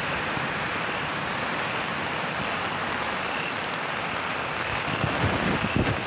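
Steady hiss of heavy rain falling, with gusts of wind buffeting the microphone near the end.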